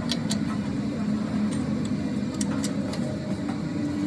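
A steady low mechanical hum, with a few light clicks and taps over it.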